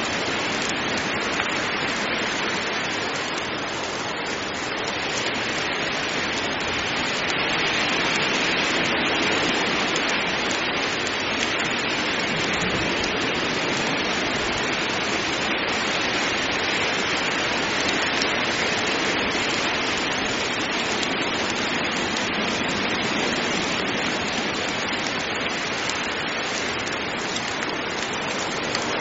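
Heavy rain falling steadily, a dense even hiss that swells slightly about a third of the way in.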